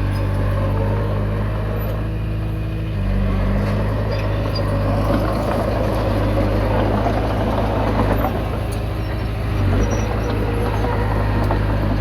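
Komatsu D20P bulldozer's diesel engine running steadily, its pitch stepping up about three seconds in, with a rougher, noisier stretch in the middle.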